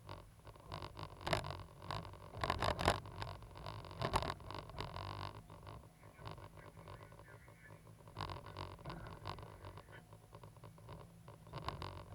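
Cat 320GC hydraulic excavator at work: its diesel engine running as a steady low hum, with irregular scraping and clattering over it, heaviest in the first five seconds and again near the end.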